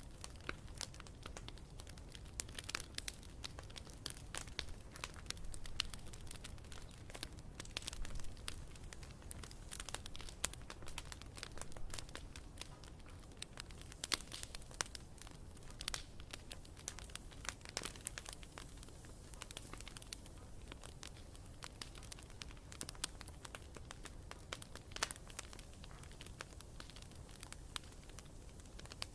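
Wood campfire crackling: many irregular sharp pops and snaps over a steady low noise from the fire.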